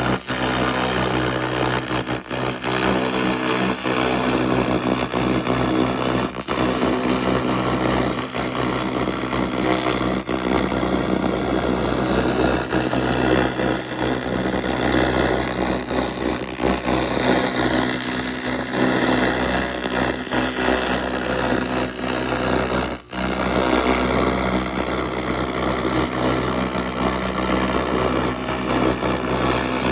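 SFX 2000 laser rust remover running: a steady hum under a dense, fluttering hiss, broken by a short drop-out about 23 seconds in.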